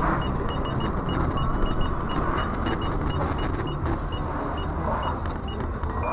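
Steady vehicle and road noise from a dash-cam recording, with a string of short, high pips at irregular intervals.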